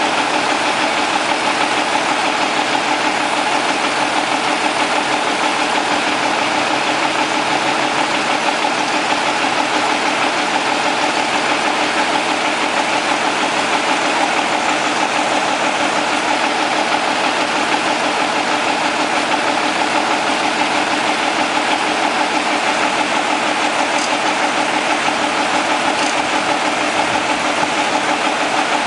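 Vintage Caterpillar D13000 diesel engine running steadily.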